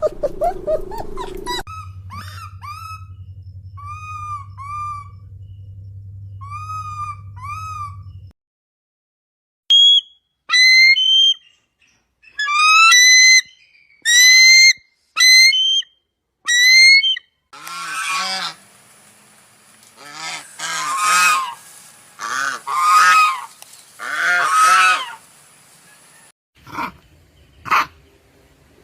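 Several bird calls one after another: short falling chirps over a low hum, then a run of loud squawking calls, then about a second in from 18 s a series of harsh honks, as from waterfowl.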